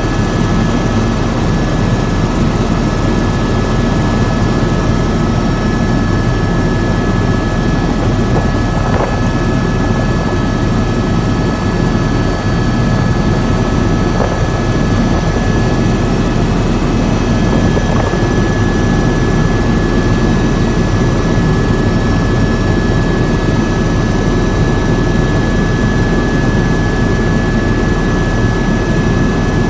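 Helicopter turbine engine and rotor running steadily, a dense low rumble with a steady high whine over it.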